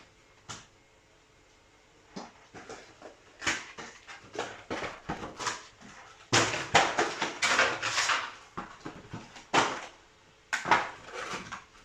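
Foil booster-pack wrappers crinkling and tearing and cards being shuffled, in irregular bursts of rustling that grow busiest about six seconds in.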